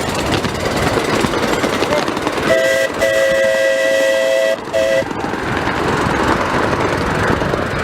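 Steam locomotive's chime whistle blowing three blasts, short, long, short, with several notes sounding together, over a steady rushing noise from the locomotive.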